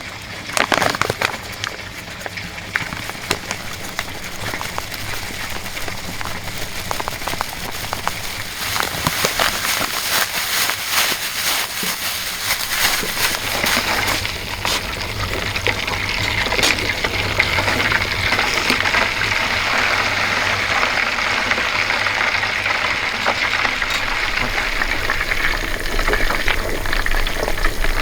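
Flour-coated chicken pieces deep-frying in hot oil in a mess tin for karaage: a steady sizzle full of small crackles, growing louder about eight seconds in.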